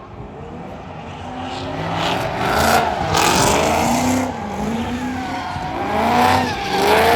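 Car engine revving hard, its pitch climbing and dropping several times and getting louder about two seconds in, with tires squealing.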